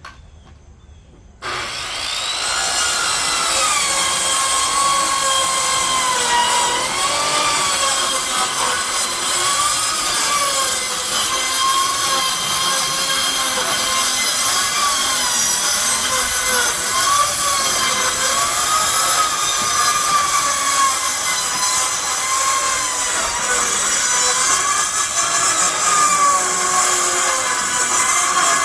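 Power saw cutting through deck wood, starting about a second and a half in. Its motor whine dips and recovers again and again as the blade loads up in the wood.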